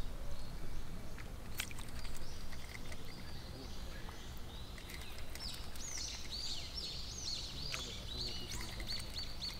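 A songbird singing a quick run of high, repeated chirping notes from about five seconds in, over a steady low rumble.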